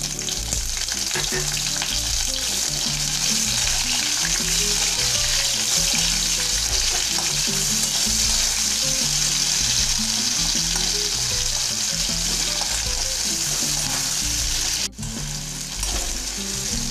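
Chopped onions sizzling steadily as they fry in hot mustard oil in an aluminium kadai, stirred and turned with a steel spatula. Soft background music underneath.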